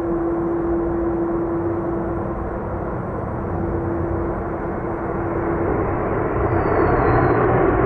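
Jet airliner engines running: a broad rush with a steady droning hum, which gives way to a louder, fuller rush near the end.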